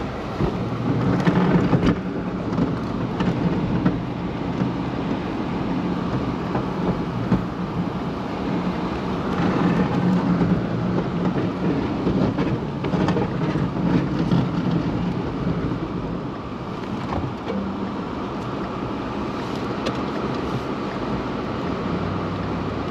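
Plow truck running while it plows, with a steady rumbling scrape of the blade over packed snow and ice and a few scattered knocks.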